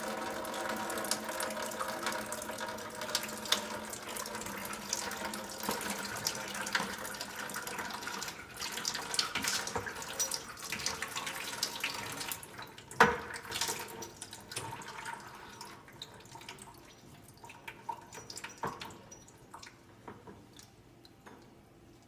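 Water running from a tankless water heater's opened service-valve ports as hoses are fitted to them, with a pitched ring that fades over the first ten seconds or so before the flow tapers off. Scattered clicks follow, the sharpest about 13 seconds in.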